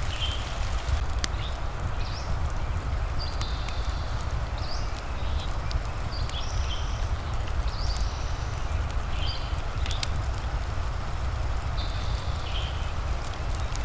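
Fireplace and rain ambience: a steady low rumble and hiss of rain, with scattered sharp crackles from the fire. Over it, a bird gives short high calls every second or two.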